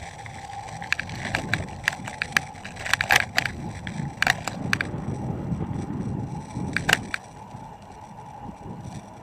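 Bicycle rolling with sharp clicks and clatters over a low rumble, the loudest rattles about three seconds in and again near seven seconds, after which only the rumble continues.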